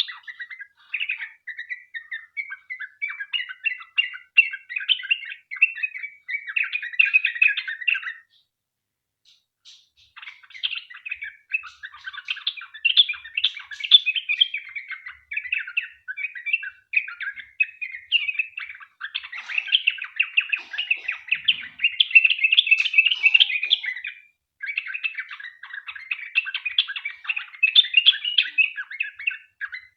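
Yellow-vented bulbul (trucukan) singing long, fast runs of chattering, bubbling notes, with a pause of about two seconds about eight seconds in.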